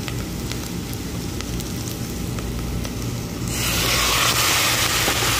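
Sliced onions and garlic sizzling in hot oil in a stainless steel pot, with small crackles. About three and a half seconds in, raw chicken pieces are dropped in and the sizzle jumps to a loud, steady hiss as the meat hits the hot oil.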